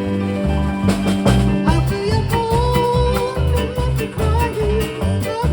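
A live band plays an upbeat swing tune, with a steady bass beat about twice a second. A sustained, slightly wavering melody line comes in over it about two seconds in. The sound is picked up by a cell phone microphone.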